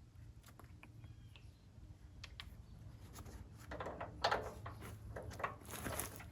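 Metal clicks and clatter of hydraulic quick-connect couplers being handled and pushed onto the tractor's hydraulic ports, a few sparse clicks at first, then a busier run of clicks and knocks over the last couple of seconds.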